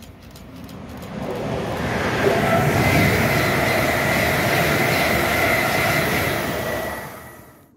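Class 350 Desiro electric multiple unit passing through at speed. The rush of wheels on rail swells over a couple of seconds, holds loud with a steady high whine, then falls away quickly near the end.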